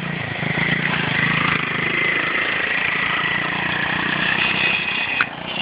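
Small dirt bike engine running steadily, with a held whine; the sound changes abruptly about five seconds in.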